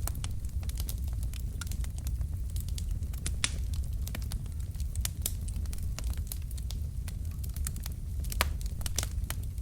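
Wood fire of burning logs in a fireplace crackling, with irregular sharp pops and snaps over a steady low rumble of the flames.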